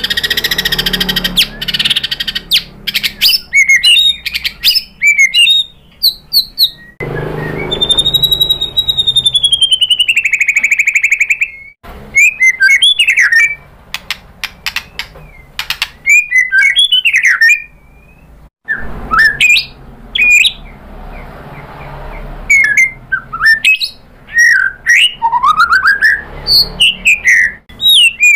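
White-rumped shama (murai batu) singing a fast, varied song of sharp sweeping whistles and chattering notes, with one long arching whistle about eight seconds in. The background noise changes abruptly several times.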